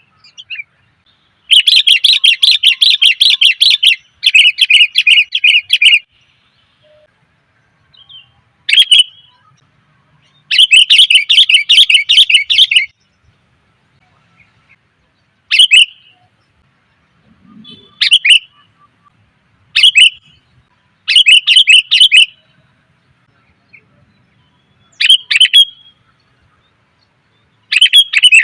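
Female sooty-headed bulbul giving rapid chattering calls. Three long runs of about two seconds each come in the first half, then shorter calls every two to three seconds. It is the female's call that draws in males, used as a lure.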